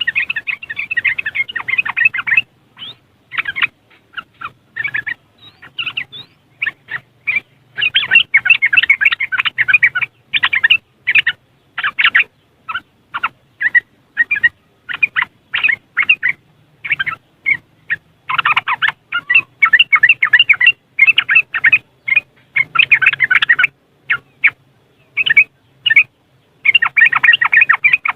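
Yellow-vented bulbul (trucuk) giving its fast chattering 'ngriwik' call: short bursts of notes alternating with long dense runs of chatter lasting several seconds.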